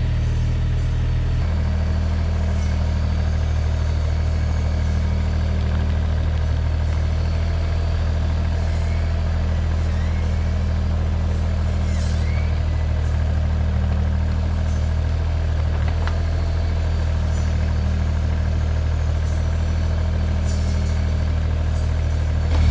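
Mini excavator engine running steadily with a low, even drone.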